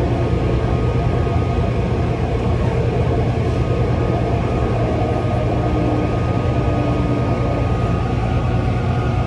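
Taichung MRT train running at a steady speed: a constant low rumble of wheels and running gear, with a thin steady whine above it.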